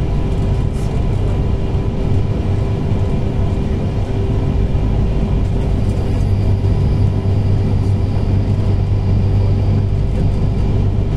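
Steady rumble of a regional passenger train running at speed, heard from inside the carriage, with a few steady humming tones under the noise of wheels on rails.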